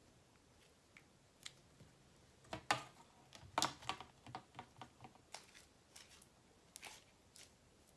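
Irregular small clicks and taps from handling sticky clear slime and its containers, a dense cluster about two and a half to four seconds in, then scattered ones.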